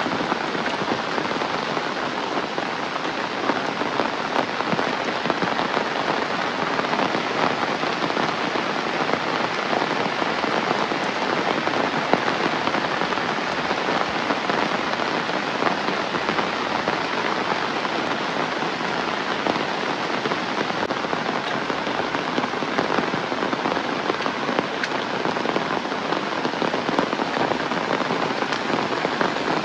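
Heavy rain falling steadily, a dense even patter of countless drops.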